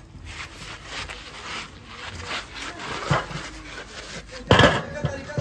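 Hand work on car body metal: irregular scraping or rasping strokes, with one loud knock about four and a half seconds in.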